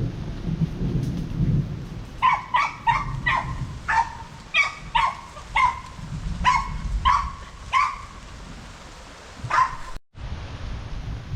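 A dog barking: a quick run of about a dozen short, sharp barks, then one more near the end, over a steady low rumble.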